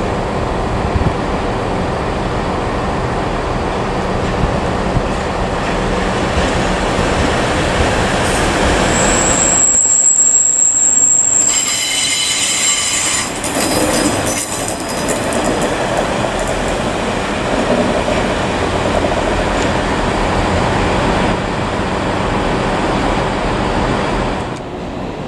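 Passenger train moving along the track with a steady rumble; its wheels squeal on the rails for several seconds starting about nine seconds in, a high shriek breaking into several pitches.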